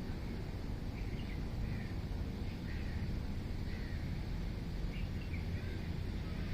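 Birds chirping in short scattered calls, several a second or two apart, over a steady low rumble.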